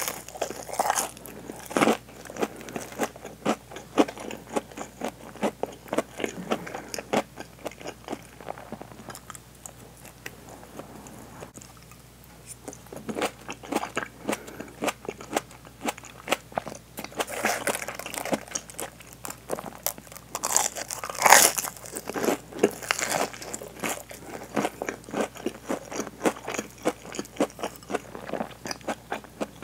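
Close-up crunching and chewing of deep-fried hanpen fish cake with cheese in a crisp breaded coating: crackly bites and wet chewing, with the loudest crunch about two-thirds of the way through and a quieter spell of chewing near the middle.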